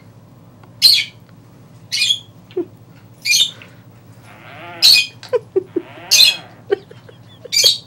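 Timneh African grey parrot giving short, sharp, high-pitched squawks about once a second, six in all, with softer lower chatter and small clicks between them in the second half.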